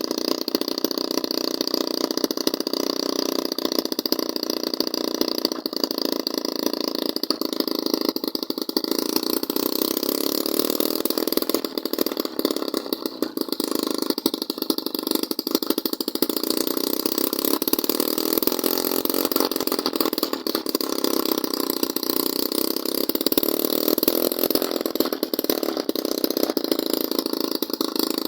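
Homemade two-stroke engine built from a refrigerator compressor, fed by a rice-sprayer engine's carburettor, running steadily with small rises and falls in speed.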